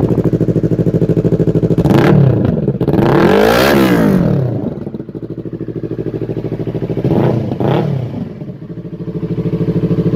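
Yamaha R25's 250 cc parallel-twin engine idling, then revved in quick throttle blips: one about two seconds in, a higher rev that rises and falls back to idle around four seconds, and two short blips about seven seconds in.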